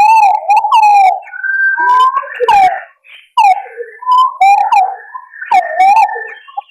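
Green pigeons (punai) calling: a run of wavering whistled notes that glide up and down, with more than one bird calling at once at times.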